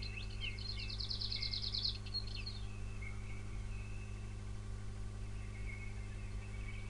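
Faint background ambience: a small bird's rapid, high trill for the first two seconds or so, then softer scattered chirps, over a steady low hum.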